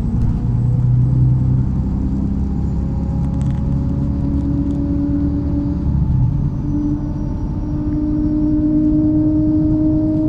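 MAZ-103 city bus under way: the engine and drivetrain rumble, with a whine that climbs slowly in pitch through the second half as the bus picks up speed, and a few light rattles.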